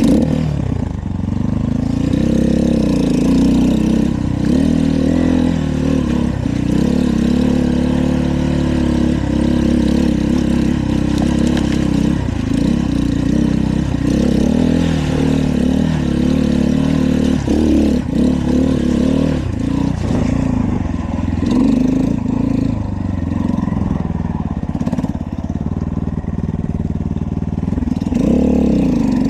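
Dirt bike engine running under a rider's throttle, its pitch rising and falling over and over as it revs up and drops back. It starts suddenly.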